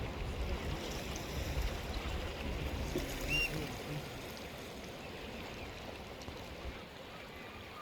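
Sea water washing and lapping along the shore, an even rush of water with a low rumble that eases near the end. A single short high chirp sounds about three seconds in.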